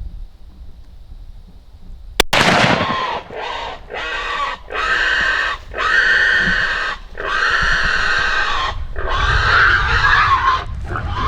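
A single sharp crack about two seconds in, then a wounded wild boar squealing in a series of long, loud screams with short breaks between them. The boar is still alive with two rounds in him and both front shoulders broken.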